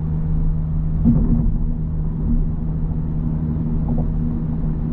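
Audi S5 cruising steadily at highway speed, heard from inside the cabin: a constant low engine drone with a steady hum of tyre and road noise.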